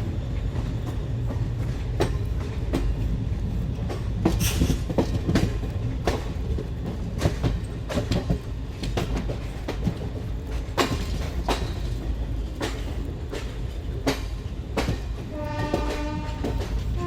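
Indian Railways passenger train rolling slowly into a station: a low rumble with irregular clicks and clacks of wheels passing over rail joints. Near the end a train horn starts sounding.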